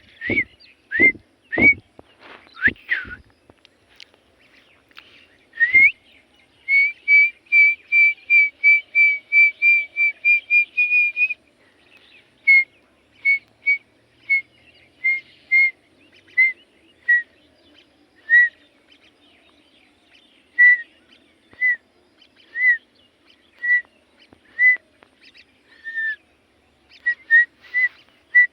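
A pet bird calling in short, high, whistled chirps. First come a few sharp rising chirps with clicks, then a quick even run of about a dozen chirps at one pitch, about three a second, and after that single chirps roughly once a second.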